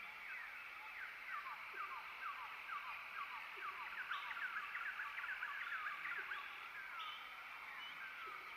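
Birds calling: many short, quick whistled notes that slide downward, several birds overlapping, busiest in the middle.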